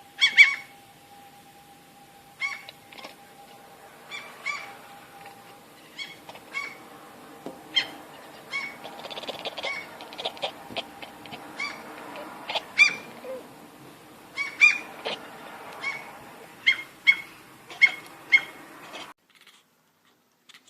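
A cat making short, honk-like calls over and over, roughly one a second, in a goose- or bird-like voice rather than a meow; they stop abruptly near the end.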